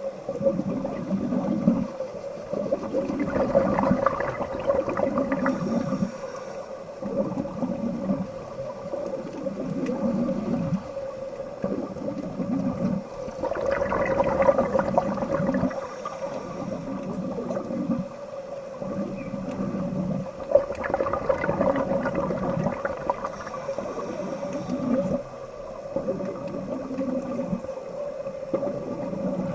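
Underwater bubbling and gurgling in repeating pulses about every second and a half, over a steady hum, with a few brighter crackly spells.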